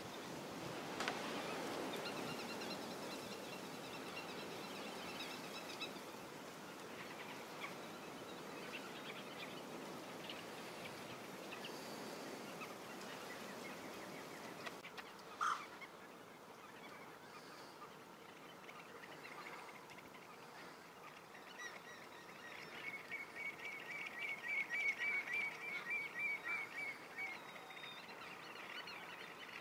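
Wetland birds calling over a steady outdoor hiss, with scattered high calls and, near the end, a quick run of repeated calls, about three a second, which is the loudest part.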